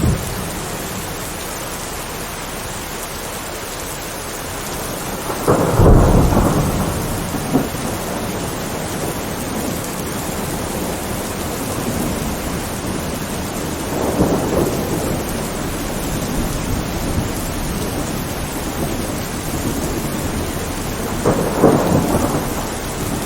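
Steady rain with thunder rumbling three times: a loud peal about six seconds in, a softer roll near the middle, and another near the end.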